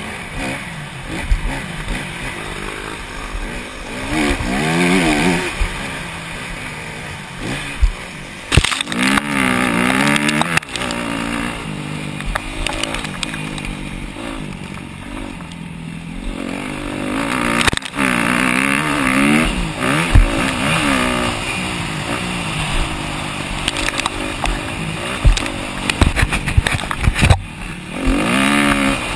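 Motocross racing at full throttle: 250cc four-stroke single-cylinder dirt bike engines revving up and dropping again and again through the corners and straights. Sharp knocks from the bike hitting bumps and landing jumps come now and then, louder around a third of the way in and near the end.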